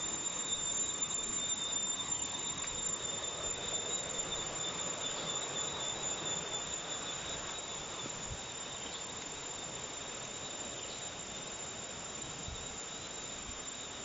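Forest insects singing a steady high drone in two pitches, over an even rushing hiss that eases off after about eight seconds.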